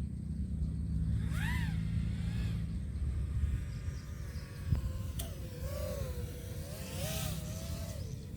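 FPV drone's motors and propellers whining, the pitch rising and falling with the throttle, over a steady rumble of wind on the microphone.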